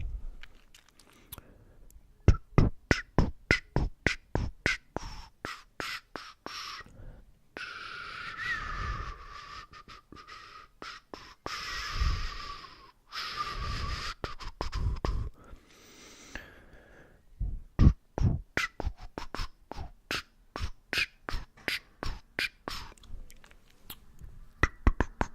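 Close-miked ASMR trigger sounds: a quick series of sharp clicks and pops, about two to three a second, broken in the middle by several seconds of hissing noise.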